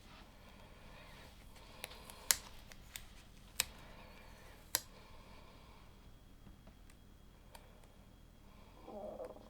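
LEGO plastic pieces being handled and pressed together: five sharp plastic clicks over the first few seconds, then a soft rustle of pieces near the end.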